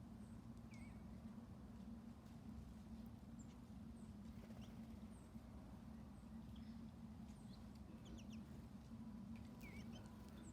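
Faint, scattered bird chirps: short high notes every second or so, with a couple of quick downward-sliding calls about a second in and near the end, over a steady low hum.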